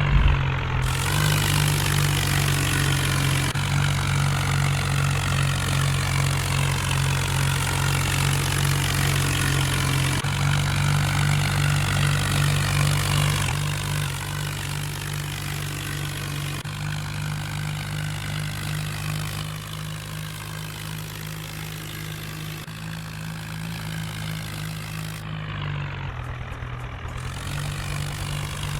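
New Holland 4x4 tractor's diesel engine running steadily at a constant note, easing a little in loudness about halfway through.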